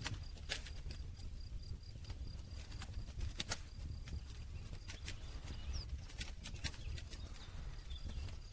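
Wood fire crackling, with irregular sharp pops, a strong one about half a second in and another around three and a half seconds, over a low rumble of the flames.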